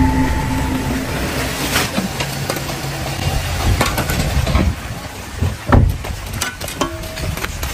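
Car engine running at idle, with a few sharp knocks over it, the loudest about six seconds in.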